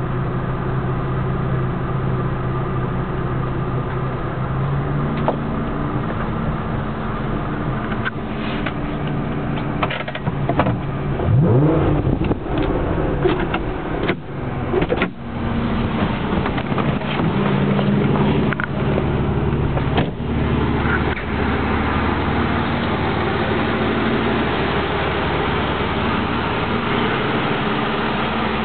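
Aston Martin DB9's V12 engine idling steadily, with one short rev about eleven seconds in. Scattered knocks and clicks of handling around the middle.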